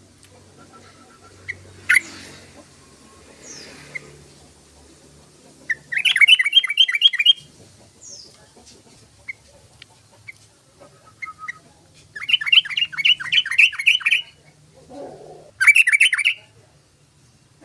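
Yellow-vented bulbul (trucukan) singing in three bursts of rapid repeated notes, the middle one about two seconds long, with a few short single notes in between.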